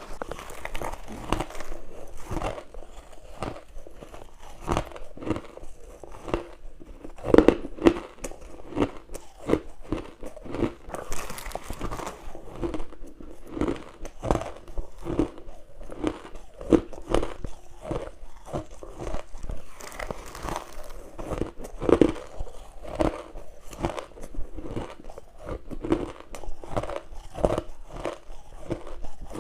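A person biting into frozen humidifier frost and crushed ice close to the microphone. The bites come as a steady run of crisp crunches, a few a second, and the loudest are about seven seconds in.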